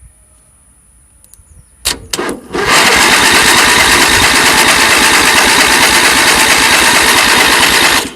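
A tractor engine cold-starting: a few sharp bursts about two seconds in, then it catches and runs loud and steady for about five seconds before cutting off suddenly.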